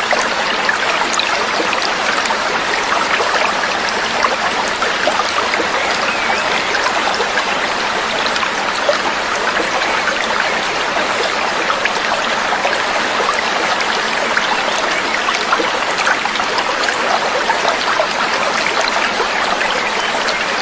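Babbling stream of water trickling and splashing steadily.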